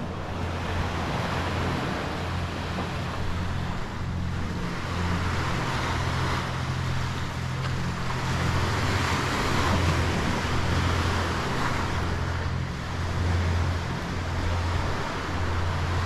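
Wind rumbling on the microphone over the sea washing, the water swelling and easing every few seconds.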